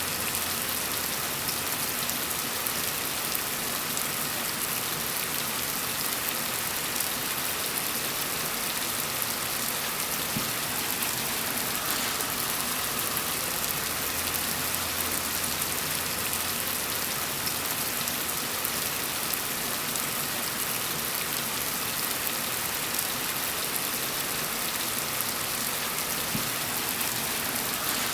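Steady, gentle rain pattering on a surface, an even hiss with fine drop patter.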